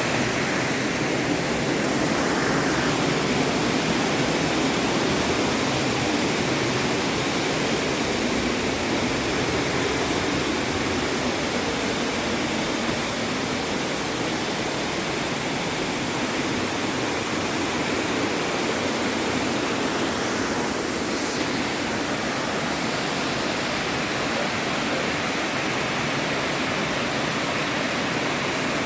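Steady rushing of falling water, an even unbroken hiss.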